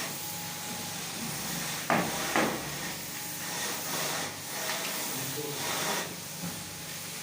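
Semi-dry floor screed work: a steady hiss with two sharp knocks about two seconds in and a few softer knocks later.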